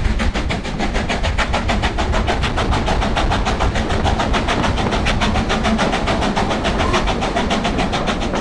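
LMS Black Five 44932, a two-cylinder 4-6-0 steam locomotive, running with quick, even exhaust beats of about five a second over the low rumble of the train on the rails.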